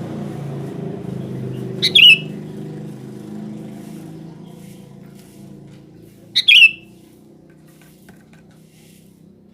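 Sooty-headed bulbul giving two short, loud calls about four seconds apart, each a quick phrase that drops in pitch. A low steady hum underneath fades away.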